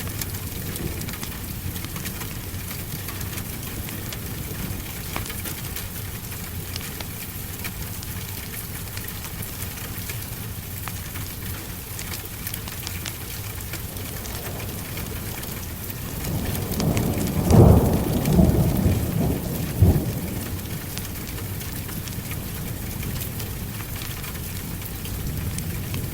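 Steady heavy rain, with a roll of thunder swelling in about two-thirds of the way through, peaking sharply twice over a few seconds and then dying away.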